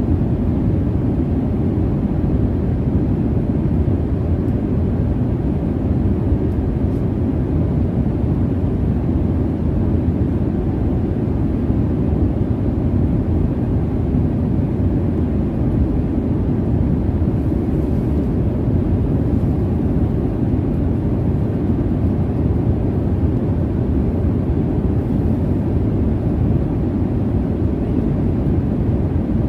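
Airliner cabin noise in flight: a steady low rumble of jet engines and airflow, even and unchanging.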